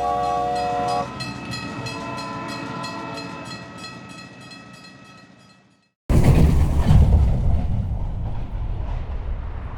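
Train sound effect: a horn sounds as a chord of several tones for about a second, then wheels clack over rail joints at a steady rhythm of about four a second, fading away. About six seconds in, a loud low rumble starts suddenly and slowly eases.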